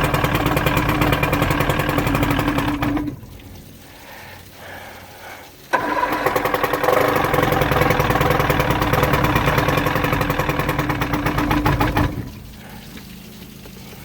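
Johnson 115 HP two-stroke V4 outboard being cranked by its electric starter in two spells, the first stopping about three seconds in and the second running about six seconds from near the six-second mark, without settling into a steady run. It is hard to start because two of its spark plug wires were left disconnected after the cylinders were fogged for winter.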